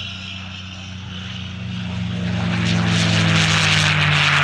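P-51 Mustang's V-12 piston engine and propeller droning in a flyby. It grows louder through the first few seconds and drops slightly in pitch near the end as it passes, with a hiss swelling alongside.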